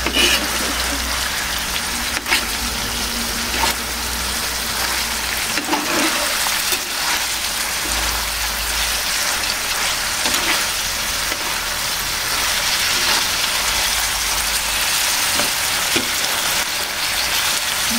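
Mackerel tuna pieces in a thick tomato-chili sambal sizzling steadily in a frying pan. A slotted metal spatula stirs them, scraping and clicking against the pan now and then.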